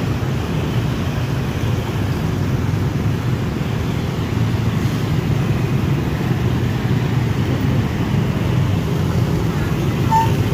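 Steady low rumble of a passenger train running, heard from inside a coach.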